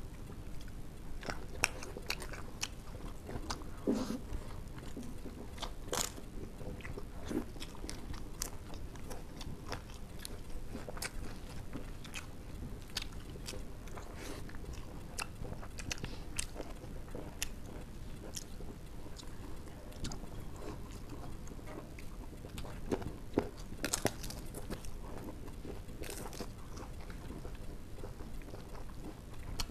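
Close-up eating sounds: scattered wet clicks and smacks of chewing as two people eat rice and curry with their hands, over a faint steady background hum.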